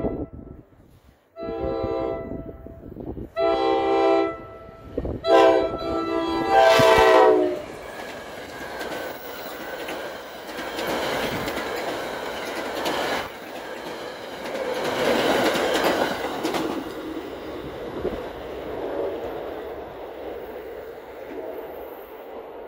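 NJ Transit commuter train sounding its multi-tone horn for a grade crossing: the tail of one blast, two long blasts, a short one and a final long one, the last the loudest. Then the coaches rumble and clatter past over the rails, louder for a while and fading away near the end.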